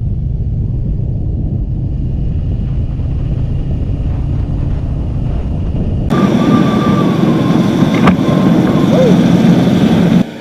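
A motorcycle on the move: a steady low rumble of engine and wind, changing abruptly about six seconds in to a brighter, noisier riding sound.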